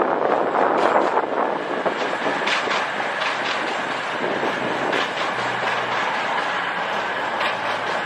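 A train running through the station: a steady rumble, loudest near the start, with a series of sharp clicks from the wheels on the track.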